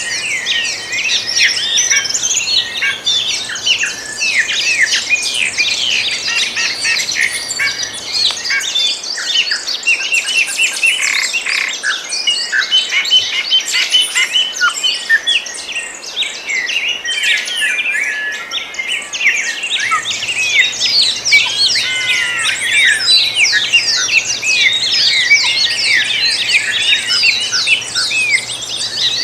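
A dense chorus of many songbirds chirping and singing at once, the short calls and trills overlapping continuously.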